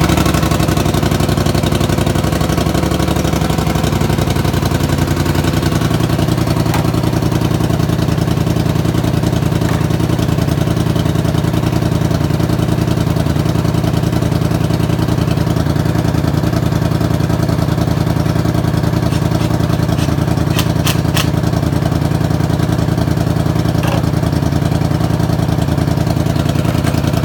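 2016 Polaris Sportsman 850 ATV's parallel-twin engine idling steadily just after being started, settling into its idle about four seconds in. A few faint clicks are heard around two thirds of the way through.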